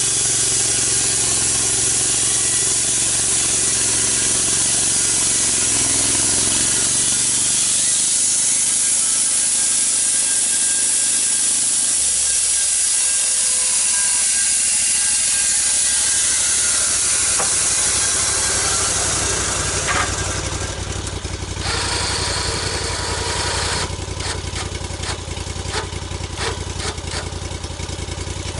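Engine-driven log milling: a small engine running steadily under a loud hiss, its note dropping about twelve seconds in, then a run of clicks and knocks in the last several seconds.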